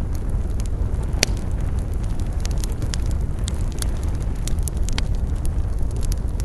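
Campfire crackling, with many short sharp pops over a steady low rumble; one louder pop just over a second in.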